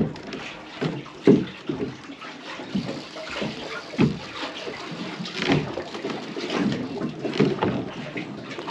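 Water sloshing and slapping against a boat's hull in irregular splashes.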